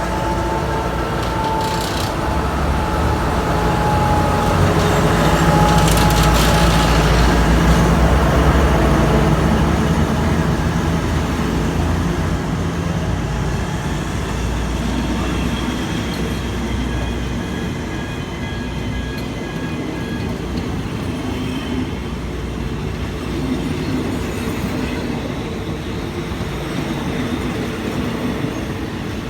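Diesel-electric locomotive hauling a passenger train as it pulls away and runs: a steady low engine hum that builds and then eases, with wheels rumbling on the rails and a few sharp clicks early on. Faint high-pitched steady tones come in around the middle.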